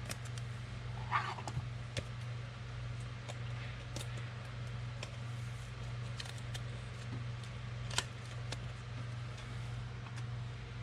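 Trading cards being handled and sorted by hand, with scattered light clicks and taps and a brief rustle about a second in, over a steady low hum.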